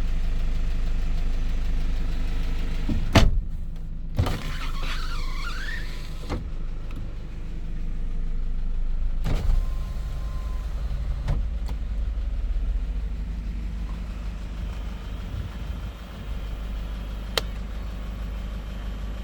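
Hyundai Porter II truck's diesel engine idling steadily, with several sharp clicks and knocks spread through, about six in all, and a brief wavering squeak about five seconds in.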